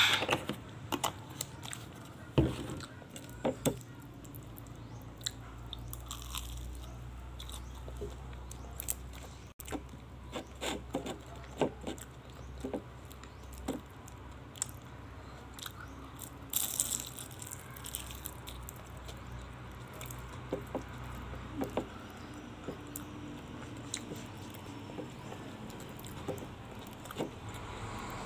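Close-up crunching and chewing of fried pork lumpia, with irregular crisp crunches and bites. A steady low hum runs underneath.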